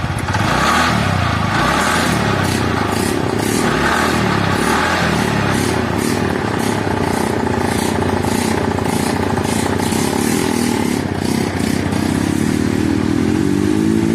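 TVS Ntorq 125 scooter's single-cylinder engine running, its throttle blipped a few times early on and revved up again near the end, with a light ticking over the steady running. This is the running sound after the faulty one-way starter clutch was replaced, which the mechanic says now sounds like new.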